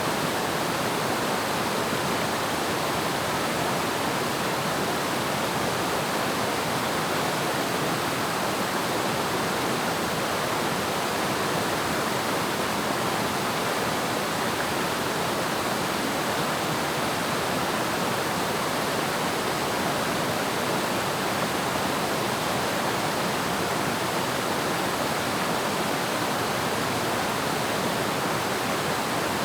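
Waterfall: water falling and splashing in a steady, even rush, with no change throughout.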